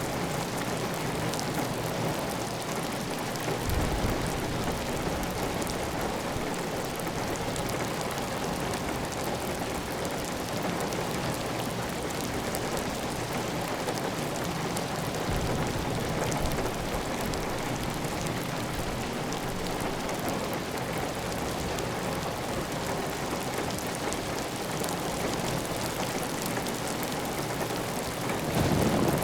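Heavy, steady rain on a clay tile roof with water running off the roof edge. A few brief low rumbles rise out of it, the loudest near the end.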